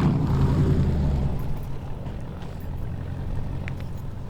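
A loud car's exhaust rumble, dying away over the first second or two as the car moves off.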